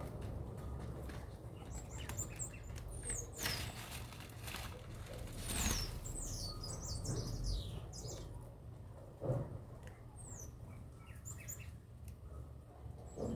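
Small birds chirping in short, high, falling notes scattered through, with a few brief knocks or flutters and a low steady hum underneath.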